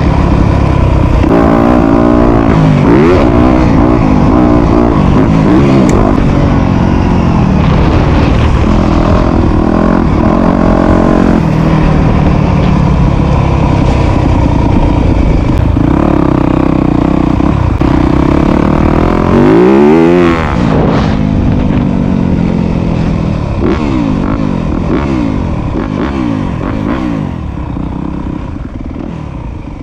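Motocross dirt bike engine revving hard, its pitch climbing and dropping again and again with throttle and gear changes. About twenty seconds in there is one steep rise and fall, and the sound grows gradually quieter toward the end.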